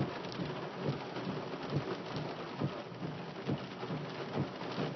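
Steady rain during a thunderstorm, with many separate drops tapping close by.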